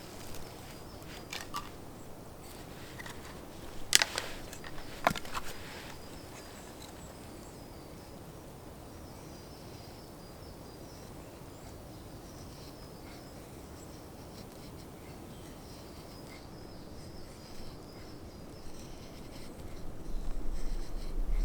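A few sharp knocks of a blade on wood in the first seconds, the two loudest about four and five seconds in, then quiet forest ambience with faint insect chirring; a low rumble rises near the end.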